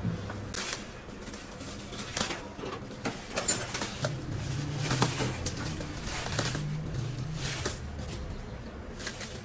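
Irregular sharp knocks and clinks, as of metal tools and engine parts being handled during repair work, over a low wavering hum.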